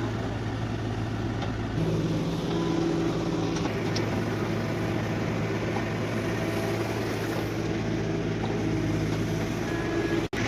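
Heavy diesel machinery at a soil-loading job, a JCB backhoe and tractor, running steadily with a constant low engine hum; the engine note rises and strengthens about two seconds in, as if put under load. The sound cuts out for an instant near the end.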